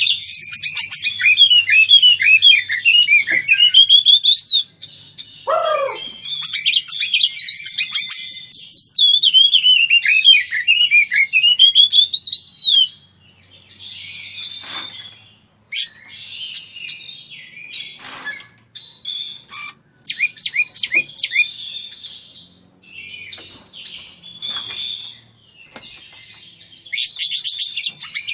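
Oriental magpie-robins (kacer) from a breeding pair singing and calling: long, fast runs of chirps and whistles for the first dozen seconds, broken by one lower falling whistle, then shorter bursts with pauses between them, and a dense run again near the end.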